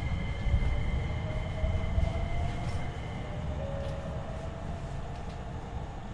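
Interior of a Hankyu 8300 series electric train car standing at a station: a steady low rumble with a thin high whine and a fainter wavering mid tone from the car's equipment.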